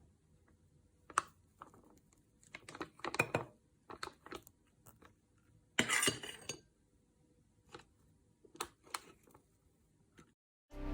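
A utensil scraping and clinking against a bowl as thick egg-yolk batter is spooned into a piping bag: scattered short clinks and scrapes, the loudest about six seconds in.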